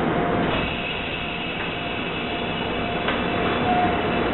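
Seibu yellow electric train moving slowly along a station track: a steady rumble of wheels and running gear with a faint steady whine, and a small click about three seconds in.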